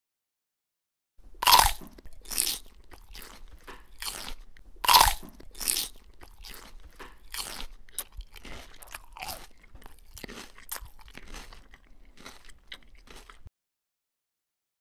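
Crunching bites into a crisp apple and chewing: a string of short crunches, the loudest few in the first five seconds, then smaller ones until the sound cuts off suddenly near the end.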